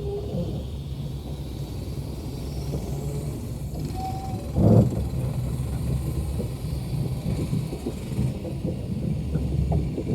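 Low, steady rumble of a moving passenger train on the rails, with a single knock about halfway through.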